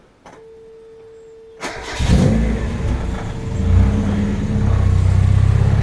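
Mazda MX-5 (Eunos) 1.6 twin-cam four-cylinder engine starting after an oil and filter change. A faint steady hum comes first, then the starter cranks about a second and a half in and the engine catches. It revs up once and settles to a steady idle.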